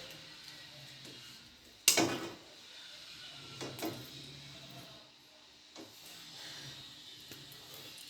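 Handling noises from cutting and stripping electrical wire with a kitchen knife: one sharp knock about two seconds in, then a few fainter clicks and scrapes.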